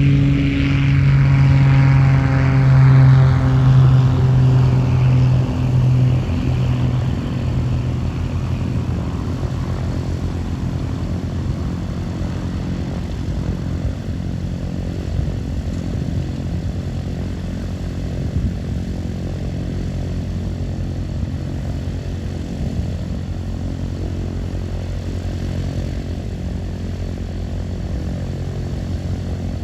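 Propeller aircraft's engine passing close, loudest a few seconds in and dropping in pitch as it moves away, then fading into a steady low drone.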